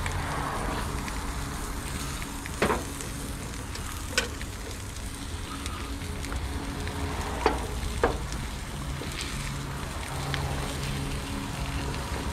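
Eggs, onions and sausages sizzling steadily on a hot grill griddle, with four sharp clicks of a spatula against the griddle plate.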